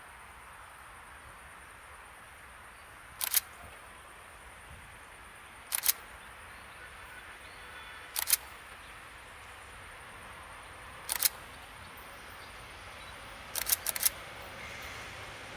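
Sharp short clicks, mostly in pairs, come every two to three seconds over a faint steady outdoor background, five times in all; the last is a quick run of three or four clicks.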